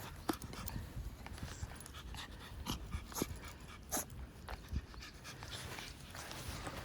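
A dog panting, with scattered light clicks and ticks throughout.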